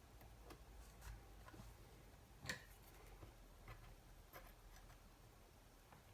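Near silence with a few faint clicks and taps from small parts and tools being handled on a workbench; one sharper click about two and a half seconds in.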